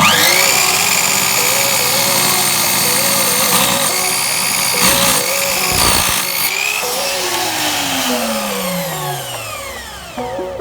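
An electric woodworking saw switched on: its motor whines up to speed at once and runs steadily. About five seconds in it cuts through wood, then it is switched off and winds down with a falling whine.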